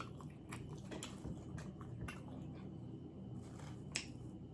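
Faint chewing and wet mouth smacks from a man eating an Italian beef sandwich, with a slightly sharper click about four seconds in.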